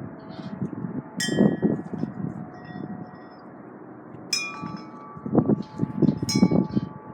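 Wind chimes struck by gusts, clanging three times with lingering ringing tones, amid bursts of wind buffeting the microphone.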